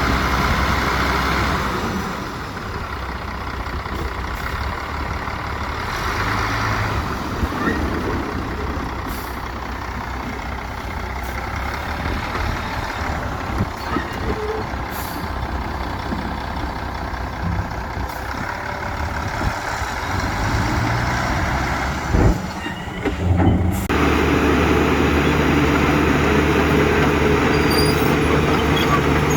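Heavy diesel engines of construction machinery running steadily, with a couple of brief hisses. The engine sound changes abruptly about three-quarters of the way through, then carries on louder and steadier.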